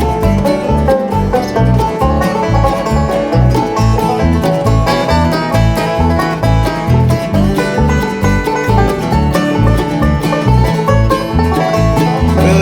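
Bluegrass band playing an instrumental break, with banjo to the fore over guitar and a steady low beat.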